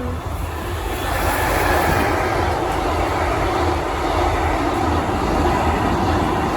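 Freight train passing close by: a steady rumble and rush of wheels on rail that swells over the first second and then holds.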